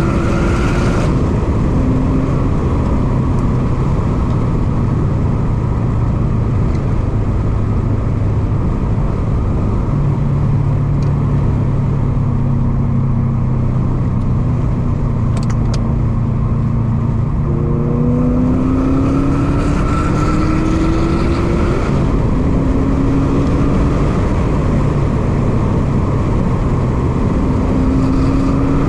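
Subaru WRX STI's turbocharged 2.5-litre flat-four engine heard from inside the cabin while driving hard on track. Its pitch climbs under acceleration and drops back with the gear changes, over a steady loud rush of noise.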